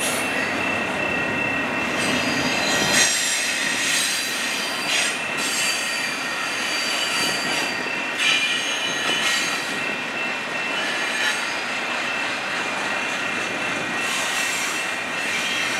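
Canadian Pacific double-stack intermodal freight train rolling past at close range: a steady rumble of the container well cars, with a high wheel squeal that swells and fades several times.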